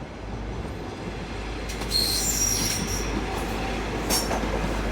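CrossCountry HST train rolling slowly through the platform, its coaches rumbling steadily, with a brief high-pitched squeal about two seconds in and a sharp clank about four seconds in.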